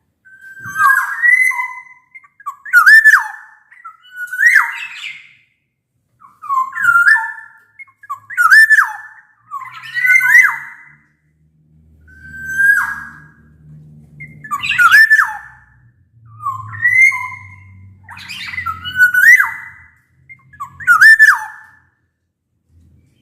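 Black-naped oriole (kepodang) singing loud, fluting whistled phrases, each a short swoop of notes, repeated about every two seconds.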